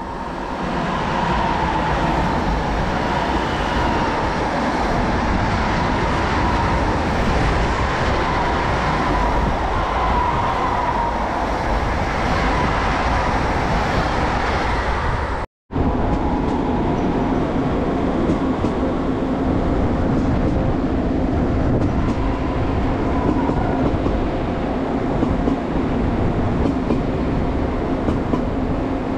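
Trains running on rails, a steady rumble with wheel clatter. In the first half a wavering high tone runs over it; the sound cuts out for a moment about halfway through, and after that a lower steady hum runs under the rumble.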